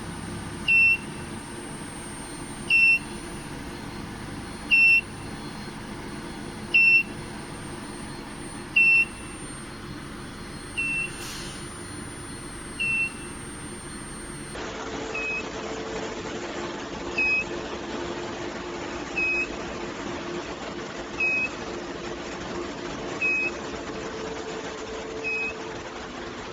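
Electronic beeper sounding a short high beep every two seconds over the steady hum of running equipment; about halfway through the beeps become quieter and a low electrical hum comes in.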